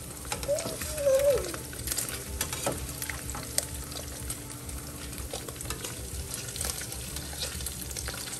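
Slices of beef loaf sizzling and crackling in hot oil in a frying pan, with a metal spatula clicking and scraping against the pan as the slices are turned. A short wavering pitched sound rises above the frying about a second in.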